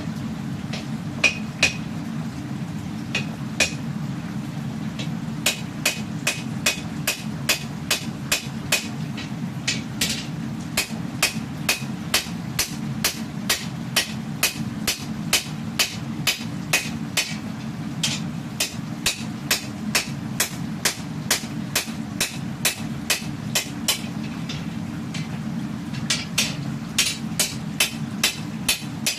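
Hammer blows on hot steel on an anvil, forging a katana blade: sharp, ringing strikes about two a second in runs, with short pauses between runs, over a steady low hum.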